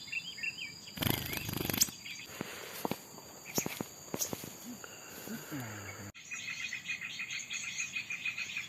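Outdoor ambience of steadily buzzing insects with bird chirps, broken about a second in by a burst of rustling noise and a few clicks. Near the end comes a fast, even run of chirping.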